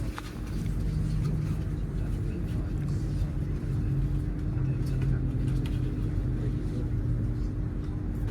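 Inside a Great Western Railway Class 800 train coasting into a station: the steady low rumble of the wheels and running gear, with a constant hum underneath.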